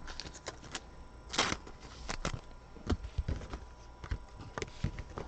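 Football trading cards being handled and flipped through, with scattered light clicks and rustles and one louder swish about a second and a half in.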